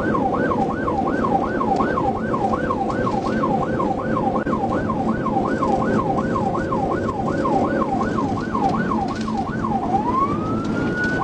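Police car siren in yelp mode, sweeping up and down about three times a second, then switching near the end to a single slow rising wail that holds at the top. Underneath it is the engine and road noise of a car driven at high speed.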